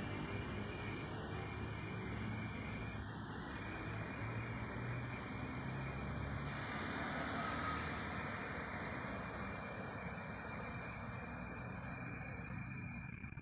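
Crickets calling without pause, a thin steady high tone, over a continuous low rumble and hiss that swells about seven seconds in and eases near the end.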